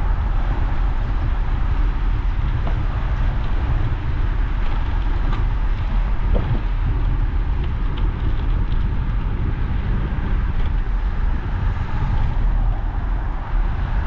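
Steady wind and road noise of a bicycle ride, with a heavy low rumble of wind on the microphone and a few faint ticks.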